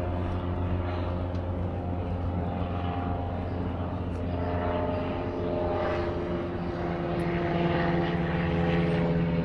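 A motorboat engine droning steadily as it passes on the lake, growing somewhat louder near the end.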